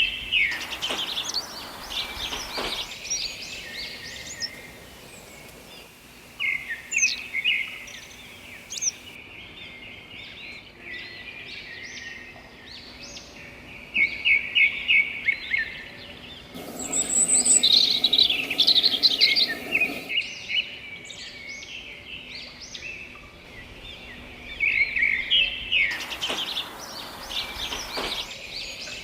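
Several songbirds chirping and singing together, overlapping calls with quick trilled runs of rapid notes that are loudest about halfway through.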